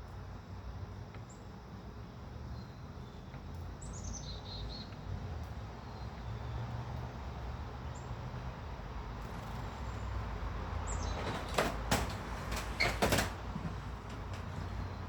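Small birds at a feeder giving a few short, high, falling chirps, with a cluster of sharp knocks and rustles near the end, likely birds landing and moving on the feeder. A steady low rumble runs underneath.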